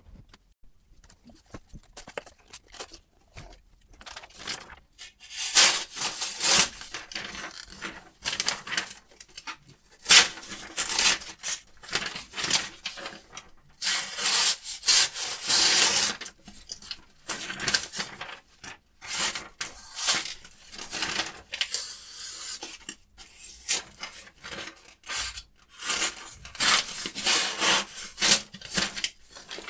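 Sharpening stone drawn in repeated, uneven back-and-forth strokes along a carbon-steel knife blade on a guided sharpening system, a rasping rub with short pauses between strokes.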